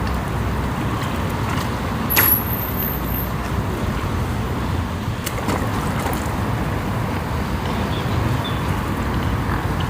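Steady low rumble of distant road traffic, with a short high-pitched squeak about two seconds in.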